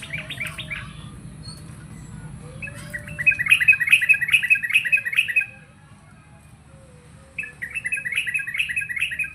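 Yellow-vented bulbul (trucukan) singing in three phrases of rapid repeated notes: a short phrase at the start, a long, loud one a few seconds in, and another near the end. A low steady hum runs underneath.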